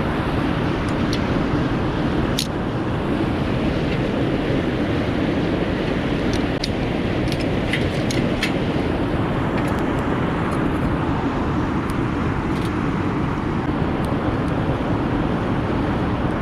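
Wood fire crackling, scattered sharp pops over a steady low rushing noise.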